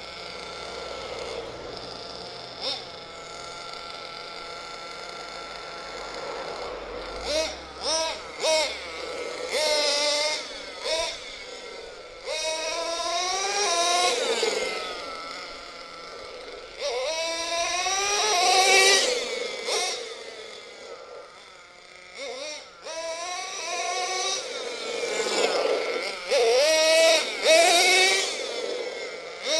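HSP 1/8-scale nitro RC monster truck's small .21 nitro engine, first running steadily at low revs, then revving up and down again and again as the truck accelerates away and slows, each run a rising high-pitched whine.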